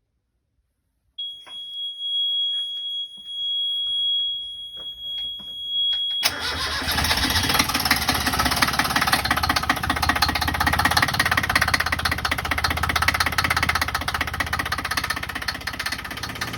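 A steady high-pitched tone with a few clicks, then about six seconds in a sailing yacht's inboard engine starts and runs steadily with a fast, even rattle.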